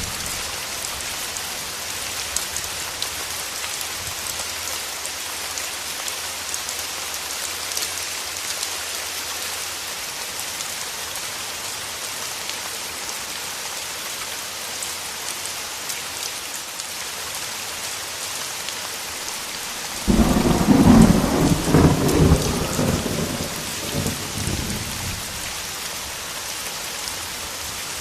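Steady rain, with a sudden loud rumble of thunder about two-thirds of the way through that dies away over a few seconds.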